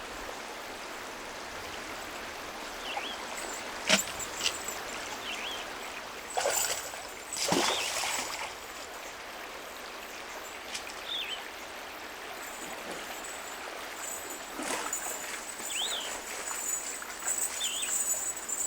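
A river or stream flowing steadily, with a few splashes of water between about a third and halfway through, and short high chirps every few seconds.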